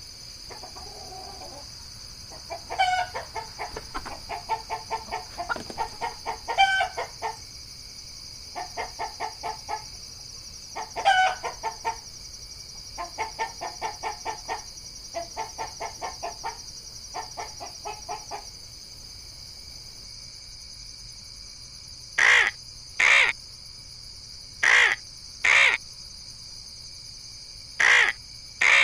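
Guinea fowl giving runs of rapid, rattling chatter calls, several pulses a second. These give way, after a pause, to a crow cawing in pairs of loud, harsh caws over the last third. A steady high hum runs underneath.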